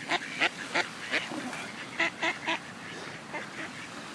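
Duck quacking: a run of short, repeated quacks about three a second, then a second short run of three quacks about two seconds in.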